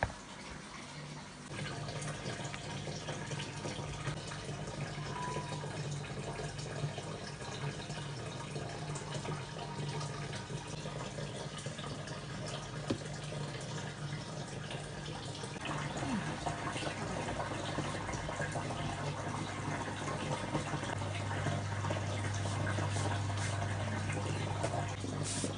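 Water running from a tap and splashing into a sink, over a steady low hum. The sound thickens about a second and a half in, and again past the middle.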